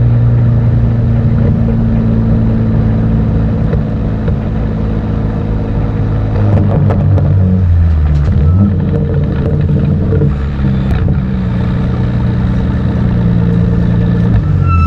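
BMW M4 GT4's twin-turbo inline-six heard from inside the race car's cockpit, running at low, fairly steady revs. In the second half the revs turn uneven, with a few sharp clicks and knocks and a short high beep near the end.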